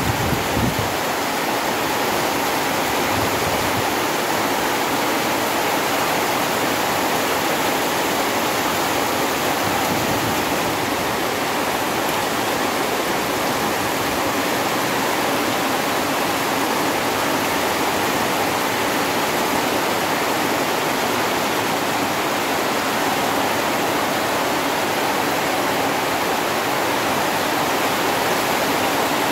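Heavy rain pouring steadily on trees and undergrowth, a dense, even hiss that does not let up.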